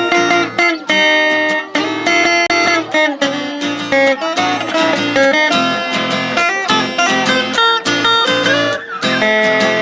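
Instrumental break in a caipira country song: acoustic guitars plucking a melody over strummed chords.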